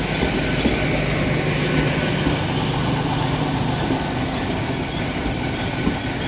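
GWR Class 800 Intercity Express Train (800 313) running steadily on its underfloor diesel engines, with a continuous high squeal over the engine hum.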